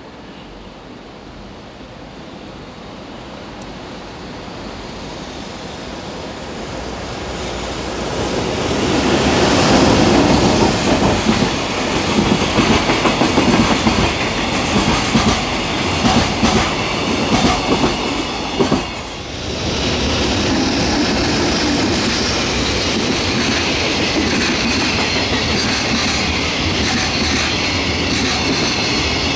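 EH500 electric locomotive hauling a long container freight train, approaching and growing louder, at its loudest as it passes about a third of the way in. The container wagons follow with a steady rumble and clickety-clack over the rail joints, with a brief lull about two-thirds in.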